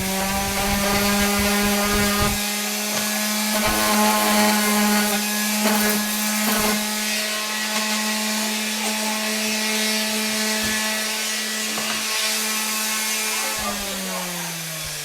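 An electric power tool's motor spins up, runs at a steady pitch for about thirteen seconds with some knocks and rubbing of wood, then winds down with falling pitch.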